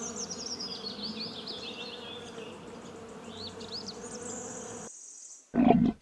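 Bee buzzing steadily, a low hum, with high chirps over it. The buzz cuts off about five seconds in, and a short loud sound follows near the end.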